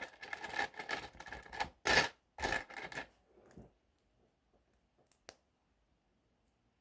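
LEGO bricks being handled: hands rummaging and rattling among small plastic pieces for about three seconds, then a few sharp little clicks as pieces are pressed together.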